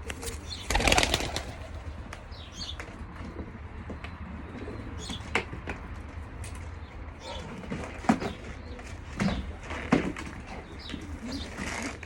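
Racing pigeons in a loft cooing, with a loud burst of wing flapping about a second in and a few sharp knocks later on.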